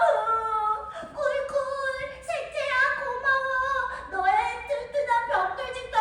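A woman singing unaccompanied in a high voice, holding notes and sliding between them.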